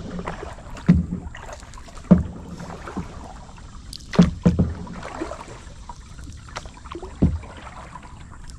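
Kayak paddling: paddles knocking on the hull of a double kayak and dipping into the water, a sharp low knock every one to two seconds.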